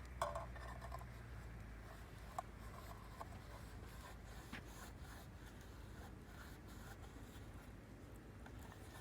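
Small wood fire crackling faintly, with scattered sharp pops, the loudest just after the start.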